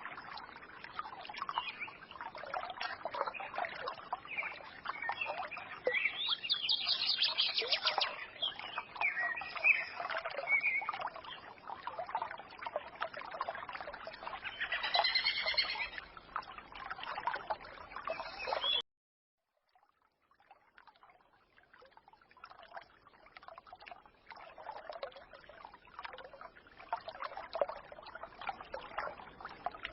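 A small forest stream trickling steadily, with songbirds singing over it in short twittering phrases. About two-thirds of the way through the sound cuts off abruptly for about a second, then the stream resumes quieter with fewer birds, as at an edit join.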